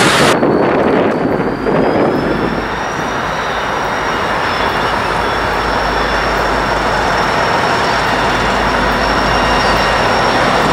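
Wheel and car noise of a double-stack intermodal freight train passing close, cutting off about half a second in as the last car clears. Then diesel locomotives approach slowly with a steady low engine rumble and a thin, steady high-pitched squeal over it.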